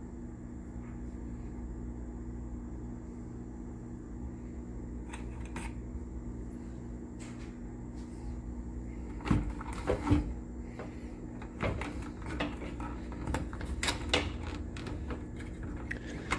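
Scattered light clicks and knocks from hand work on the water heater's electrical wiring, starting about nine seconds in, over a steady low hum.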